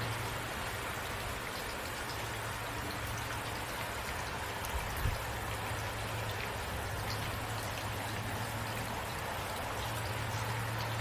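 Steady rain falling, with a low steady hum beneath it and a brief soft thump about five seconds in.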